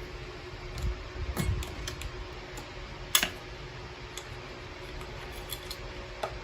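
Light plastic clicks and taps from handling the Cadillac CUE touchscreen assembly as it is lifted out of the dash. The sharpest click comes about three seconds in, with a few smaller ones scattered around it.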